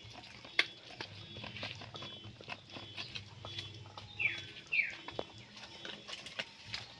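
A dog eating, with many small scattered clicks and two short high squeaks that fall in pitch a little past halfway.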